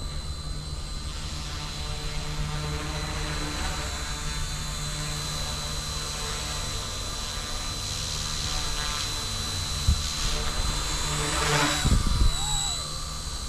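Eachine E160 micro RC helicopter in flight, its motor and rotors giving a steady high whine over a low rumble. A sharp click comes about ten seconds in, and a louder low bump near the end.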